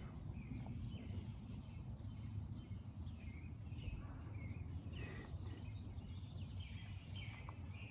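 Wild songbirds chirping and singing in the background, with many short high calls scattered all through, over a faint low steady rumble.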